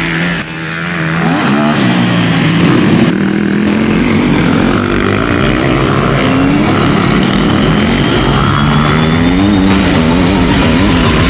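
Motocross motorcycle engines revving hard, their pitch rising and falling again and again as the bikes accelerate and shift, with a short drop in loudness just after the start.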